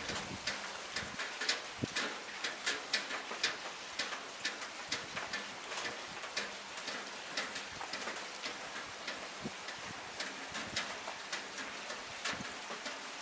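Rain falling on a window ledge: a steady hiss of rain with irregular sharp drip taps, several a second, as drops strike the ledge.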